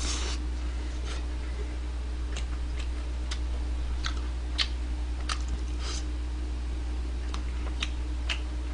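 Mouth sounds of eating a sauced fried-chicken drumstick: scattered short wet smacks and clicks of biting and chewing, about one every half-second to second, over a steady low hum.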